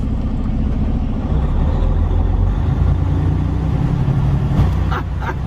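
Semi-truck diesel engine running, heard from the cab, a steady low drone whose pitch steps up slightly partway through. A couple of short knocks come near the end.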